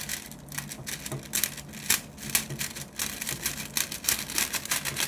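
Kitchen scissors snipping at a crinkly plastic film, an irregular run of short snips and crackles several times a second. The blades are struggling to cut cleanly.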